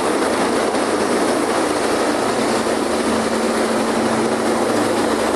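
Helicopter in flight overhead: a loud, steady, even rush of rotor and engine noise with little bass.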